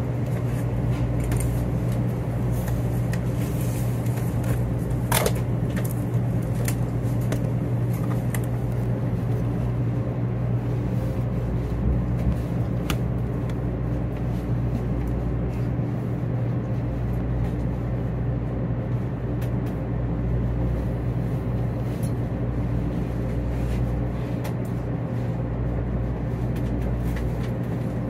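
Steady hum and low rumble inside the cabin of a 500 Series Shinkansen moving slowly along a station platform, with a few faint clicks.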